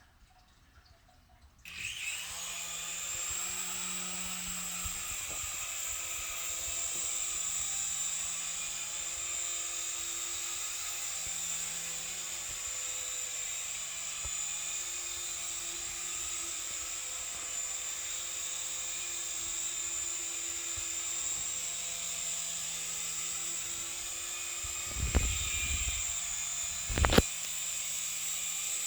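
Syma S107G coaxial toy RC helicopter's electric motors spin up suddenly about two seconds in, then run with a steady high whine and a lower rotor hum that wavers as it flies. Two sharp knocks come near the end.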